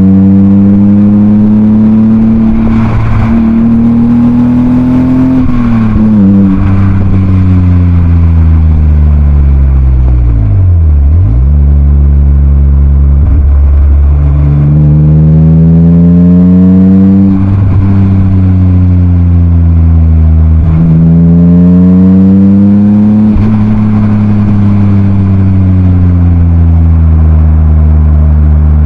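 BMW M52B28 2.8-litre straight-six running through a Schmiedmann rear silencer while driving: revs climb under load and drop sharply at each gear change, with a long fall to low revs near the middle before it pulls up through the gears again.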